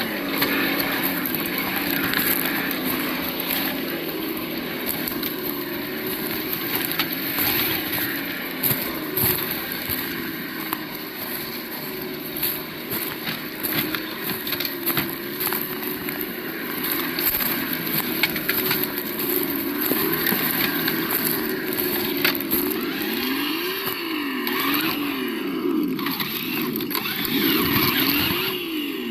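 The sound module of an Absima Yucatan 1:8 RC crawler playing a simulated engine note that rises and falls with the throttle, with several quick revs up and down near the end. A rough, noisy rattle from the truck's running gear runs underneath.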